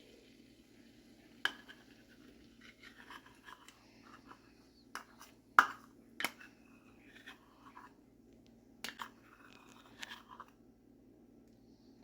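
Kitchen utensil handling: scattered sharp clicks and knocks with short scraping sounds over a low steady hum. The loudest knock comes about halfway through.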